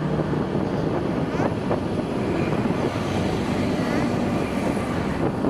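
Steady road noise from a moving vehicle: an engine running under an even rush of wind and tyre noise.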